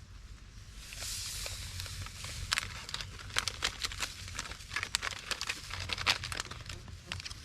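MRE plastic packaging being handled, crinkling and rustling, with a stretch of hissing rustle and many sharp irregular crackles.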